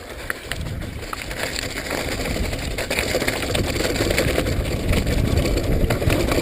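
Wind rushing over the microphone and tyres rolling on wet dirt as a downhill mountain bike picks up speed, growing steadily louder, with scattered rattles and clicks from the bike.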